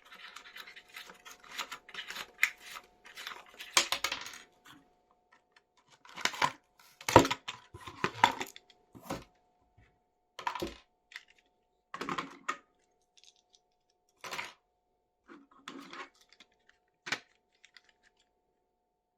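Plastic packaging crinkling and tearing for the first few seconds, then a series of separate sharp plastic clicks and knocks, a second or two apart, as toy vehicles and parts are handled and set down.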